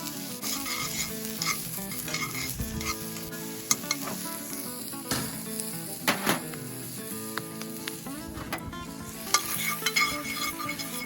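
Onion sizzling as it fries in a paella skillet, stirred around the pan, with sharp scrapes and taps of the utensil against the pan now and then.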